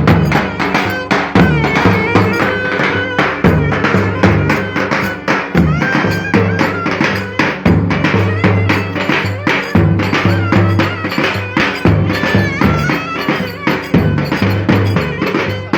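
Live Turkish folk dance music for köçek dancing, played by a band: a fast, steady drum beat under a wavering melody line, with no break.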